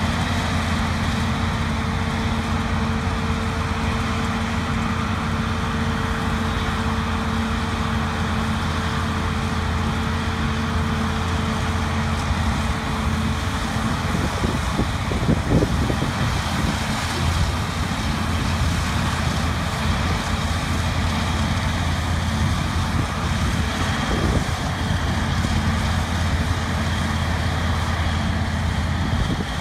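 Diesel engines of harvest machinery (combine harvester and tractors) running steadily with a low drone. A steady hum fades a little before halfway, and short clattering noises come about halfway through and again later.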